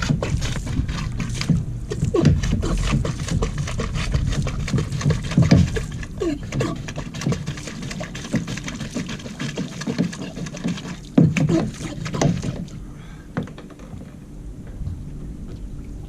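Hand bilge pump working water out of a kayak's hull: irregular plastic knocks and clatter with short gurgles of water. It goes quieter about three-quarters of the way through.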